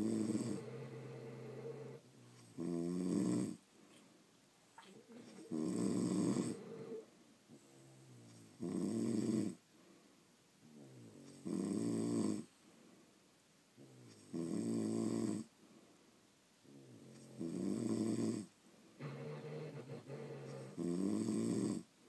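Sleeping French bulldogs snoring: a loud snore about every three seconds, each about a second long, about eight in all, with quieter breaths between them.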